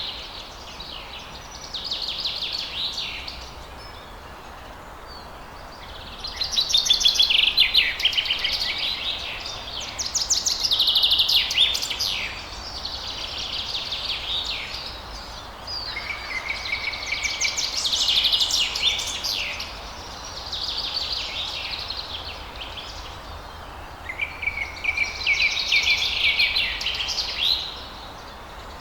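Songbirds singing in bouts of quick, trilled, high-pitched phrases a few seconds long, with short pauses between, over a faint steady background hiss.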